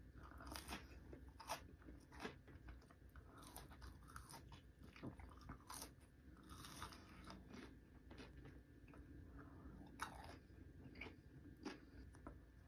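Faint close-up eating sounds: a person biting and chewing crunchy food, with irregular crunches and mouth clicks.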